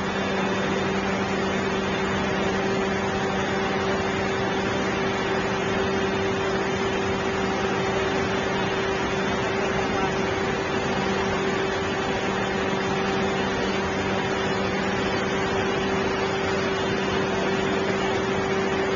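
A steady machine hum under a loud, even hiss, holding the same pitch throughout with no breaks.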